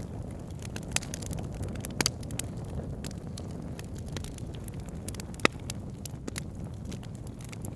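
Wood fire burning in a fireplace: a steady low rumble of flames with irregular sharp crackles and pops, the loudest pop about five and a half seconds in.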